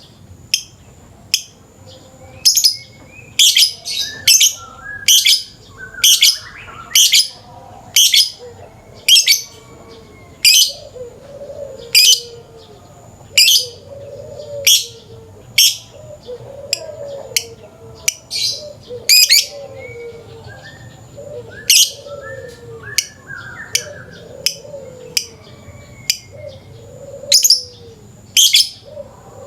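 Lovebird calling with sharp, shrill chirps, roughly one a second, used as a lure recording to set other lovebirds chattering. A lower, wavering bird call runs beneath it through the middle of the stretch.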